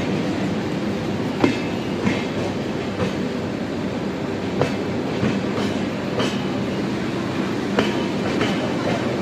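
Passenger train running along the track with a steady rumble, and irregular sharp clicks as the wheels pass over rail joints.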